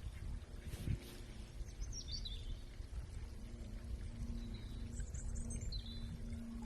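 Several short, high bird chirps over a low background rumble and a steady low hum, with a single knock about a second in.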